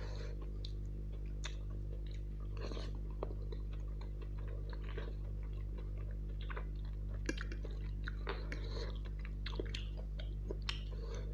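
Close-up chewing and slurping of instant noodles with chicken, with many short wet mouth clicks and brief slurps scattered irregularly, over a steady low hum.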